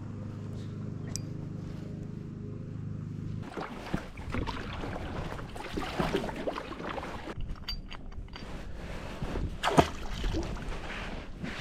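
A steady low hum for the first few seconds, then water splashing and sloshing around a kayak with wind on the microphone, and a sharp knock near the end.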